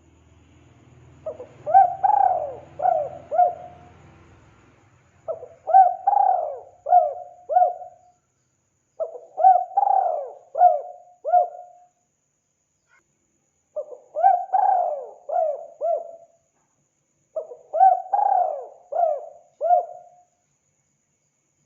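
Spotted dove cooing: five phrases of about five short notes each, a new phrase every four seconds or so.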